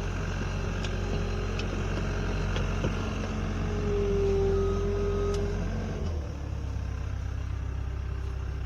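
Engine of a farm machine running steadily, with a louder whine for about a second around four seconds in and a short beep just after; the engine note drops about six seconds in.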